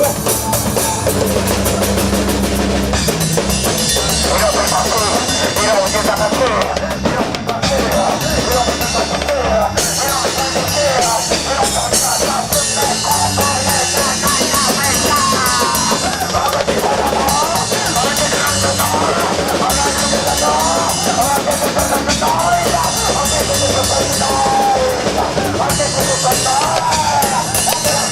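Instrumental rock music: a full drum kit with bass drum and snare keeps a steady beat under a lead melody line that bends and wavers in pitch.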